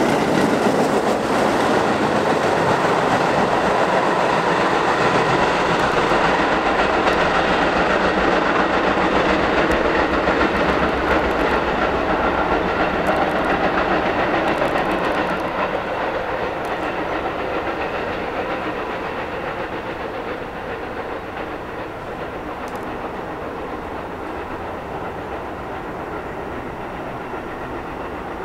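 R44 subway train running past and pulling away along the tracks, with wheel clatter and rumble. It is loud at first, then fades steadily as the train recedes into the distance.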